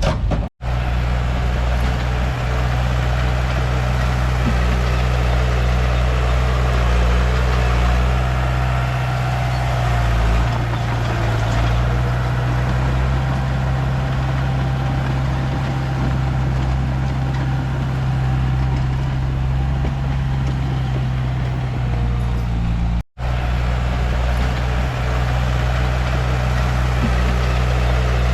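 Komatsu D31P bulldozer's diesel engine running steadily, with a low, even drone, broken twice by a brief silent gap.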